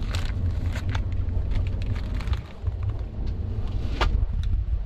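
Low, steady rumble of a moving train heard inside a passenger coach, with a few sharp clicks and knocks, the loudest about four seconds in.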